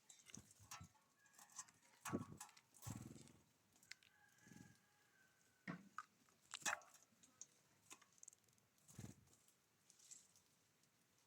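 Small wild birds at a feeder, heard faintly: scattered light taps and clicks of pecking and hopping, a few soft thuds, and one thin, steady call lasting about a second, about four seconds in.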